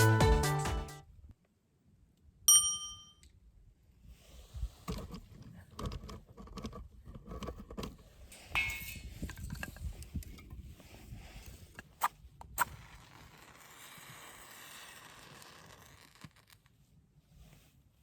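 Background music ends, then a single clear ringing ding. After it come faint scraping and handling noises with two sharp clicks about two-thirds of the way through.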